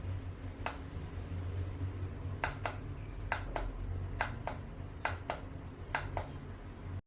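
Sharp clicks from a handheld rechargeable aroma diffuser: one single click, then five quick pairs about a fifth of a second apart, roughly one pair a second, over a steady low hum.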